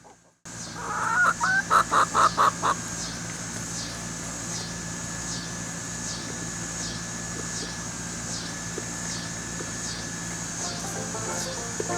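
Poultry calling in a quick run of about six loud calls in the first few seconds. After that comes a steady outdoor background with a low hum and a faint high chirp repeating about one and a half times a second.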